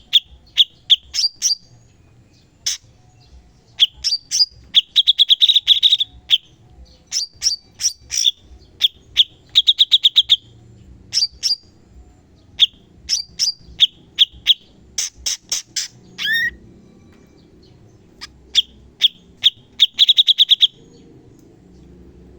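Stripe-throated bulbul (cucak cungkok) singing in rapid-fire bursts: quick series of sharp high chirps and fast trills, one after another, stopping about 21 seconds in.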